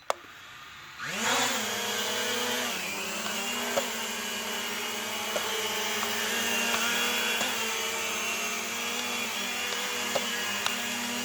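Propel Flex 2.0 toy quadcopter's motors and propellers spinning up about a second in with a rising whine, then a steady buzzing hum while it flies, dipping slightly in pitch near three seconds. A few faint clicks sound over it.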